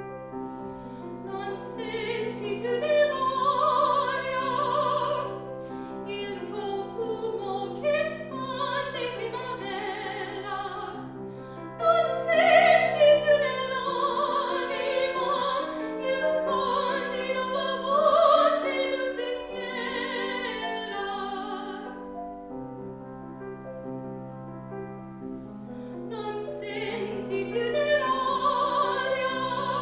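Classical singing with piano accompaniment: a trained voice with vibrato sings long phrases over piano chords, with a break in the voice of a few seconds near the end while the piano carries on.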